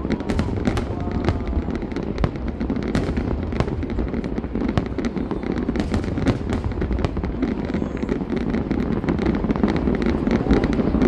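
Aerial fireworks display: many shells bursting in quick succession, sharp pops and crackles over a continuous low rumble.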